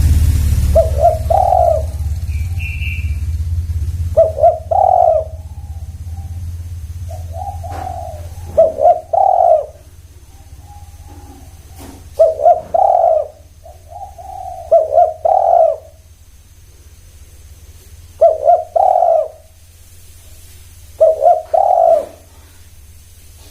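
Spotted doves cooing, phrase after phrase: two or three quick notes running into a longer coo, repeated about every three seconds. A low rumble sits under the first few seconds and fades away.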